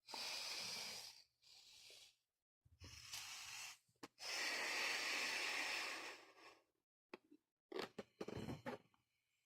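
A latex balloon being blown up by mouth: several breathy blows into it, the longest about halfway through, with short breaths between. Near the end come a few short clicks and rubbing sounds.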